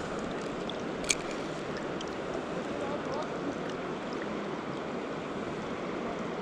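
Steady rush of river water flowing over rocks, with one sharp click about a second in.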